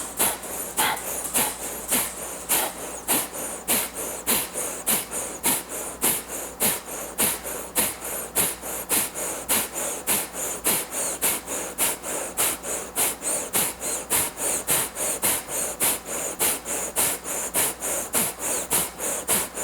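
Kapalabhati (breath of fire) breathing: a steady run of rapid, forceful exhales, each a sharp puff of breath through the nose, about two to three a second.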